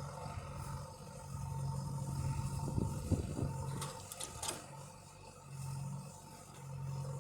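Tractor engine running with a steady low hum that fades out and comes back, and a short spell of knocking and scraping from about two and a half to four and a half seconds in.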